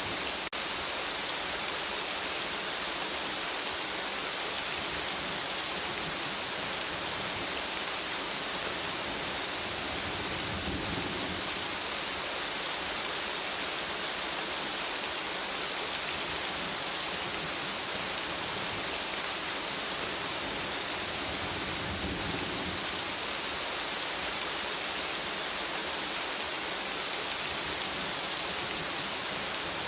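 Steady rain falling, an even continuous hiss. Two soft low rumbles, typical of distant thunder, swell and fade about a third of the way in and again about two-thirds of the way in.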